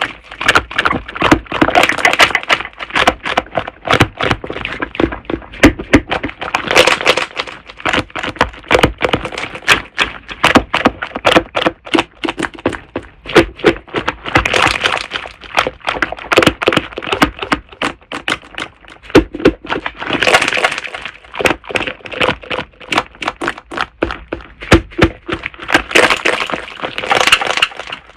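Slime being squeezed and kneaded by hand, giving a dense, continuous run of crackling pops and clicks.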